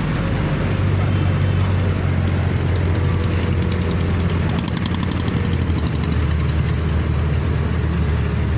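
A boat's engine running steadily as the boat moves under way, a constant low hum with a broad rushing noise over it.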